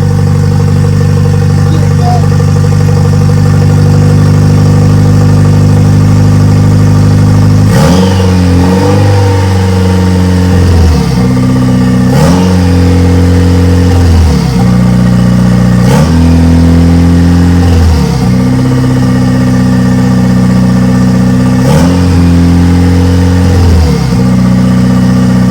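Renault Megane R26 2.0 turbo four-cylinder engine, swapped into a Clio and just started with its second injector freshly reconnected, idling steadily, then revved in repeated blips about every two seconds from about eight seconds in.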